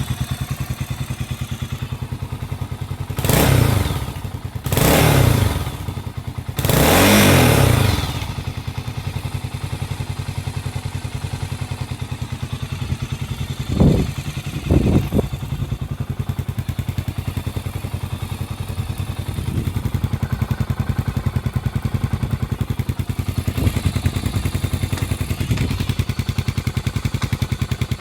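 Honda CB400SS single-cylinder engine breathing through a Moriwaki short classic full exhaust, idling with an even beat. About three seconds in it is revved three times in quick succession. Two short, sharp blips come midway, and a few lighter ones follow near the end.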